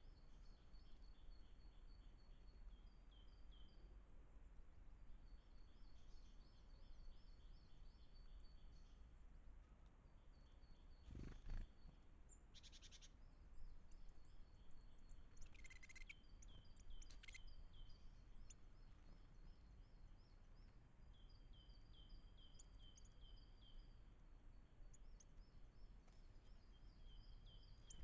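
Faint birdsong: a small songbird repeating short phrases of quick high notes over and over. There is a single knock about eleven seconds in, followed by a few sharp calls.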